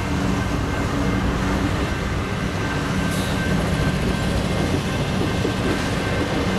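Several CSX diesel locomotives passing at speed, their engines droning steadily under a loud, continuous rumble of wheels on the rails.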